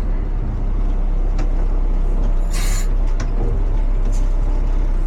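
Front-loader garbage truck's diesel engine running steadily, heard from inside the cab, with a short hiss of air about two and a half seconds in.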